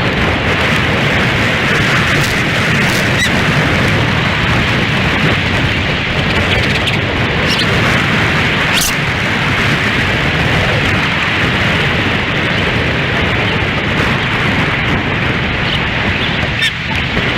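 Strong wind buffeting an outdoor nest-camera microphone, a steady loud rumbling rush with a few faint, brief high-pitched sounds on top.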